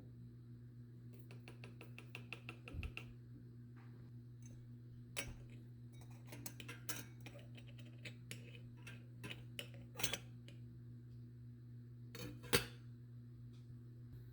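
Dishes and cutlery clinking and knocking in a kitchen while coffee is being made: a scattered series of clinks, the sharpest near the end, over a steady low hum.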